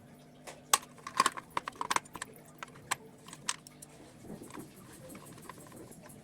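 A series of sharp, light clicks and clinks of small hard objects being handled, bunched together in the first three and a half seconds and sparser after.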